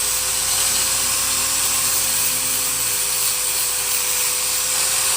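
A small machine running steadily: a constant hiss with a steady whine, unchanging throughout.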